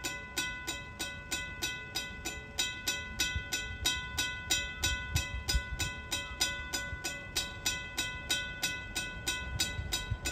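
Freight train rumbling past under a rapid, even ringing of about four to five strikes a second on one unchanging pitch.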